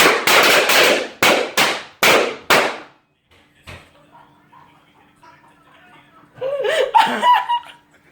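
A string of firecrackers going off indoors: about seven loud bangs in under three seconds, each with a short ringing tail. Later a person cries out with a wavering voice.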